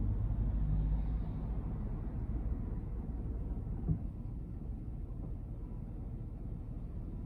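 Inside the cabin of a Honda N-BOX: a steady low rumble from its small three-cylinder engine and the running car. A single short knock comes about four seconds in.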